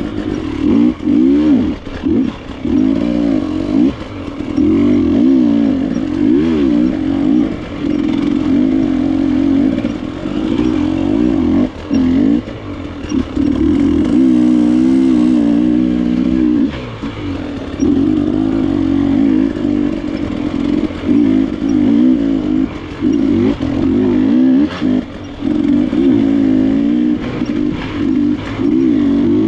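Enduro dirt bike engine, KTM, working hard off-road, revving up and down again and again as the throttle is opened and shut, with frequent short drops in loudness.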